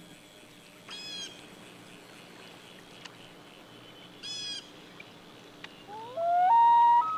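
Two short, harsh bird calls about three seconds apart over a quiet lake background. Near the end comes a much louder wailing call that rises in pitch and then holds on steady notes.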